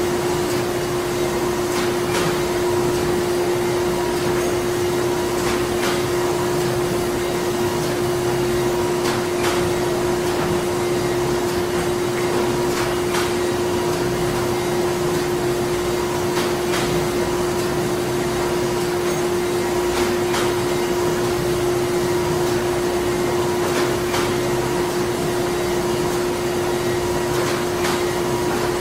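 Printing-factory machinery running steadily: a constant hum with a strong single tone over a bed of machine noise, with a faint regular click about every two seconds.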